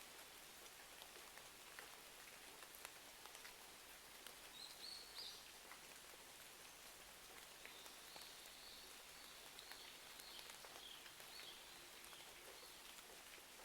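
Faint steady rain with scattered sharp ticks of drops, and a bird chirping high: one short phrase about four seconds in and a longer run of chirps from about eight to twelve seconds.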